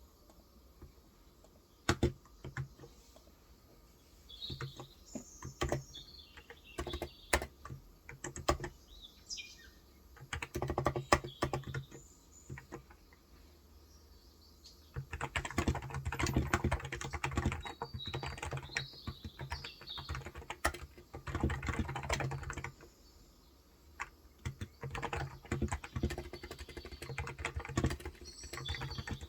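Typing on a Cox Endeavour electrostatic-capacitive (non-contact) tenkeyless keyboard with 35 g switches: key presses come in bursts with short pauses, with a long, dense run in the middle. Birds chirp faintly in the background.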